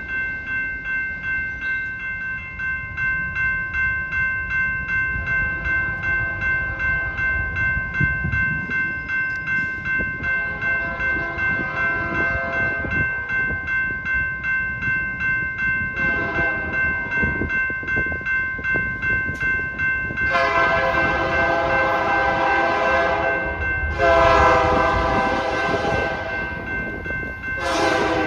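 Locomotive air horn sounding as a train approaches: fainter blasts at first, then two loud long blasts and the start of a short one near the end, the grade-crossing signal pattern. Under it, a crossing bell rings steadily about twice a second over the low rumble of the train.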